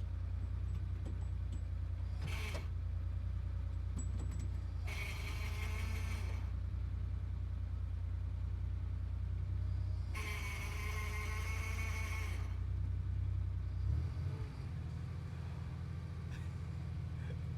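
Sports car engine idling steadily while the gearbox will not go into first, a sign of clutch trouble. Three short harsher, higher-pitched bursts break over the idle, and near the end the engine note changes to a steadier, slightly higher hum.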